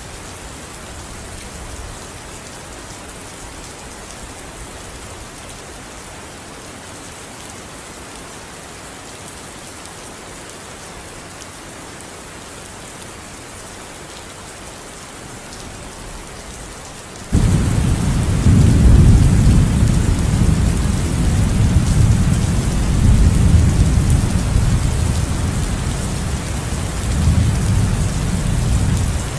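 Steady rain falling, an even hiss. A bit over halfway through, a loud, deep rumble of thunder starts suddenly and rolls on for about twelve seconds over the rain.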